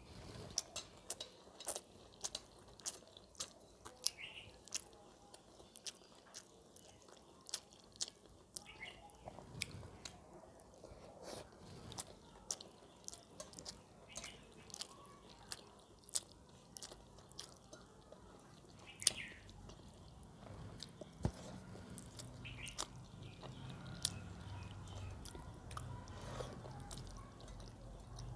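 A person chewing and eating food close to the microphone, with many short crunchy bites and mouth clicks at irregular intervals.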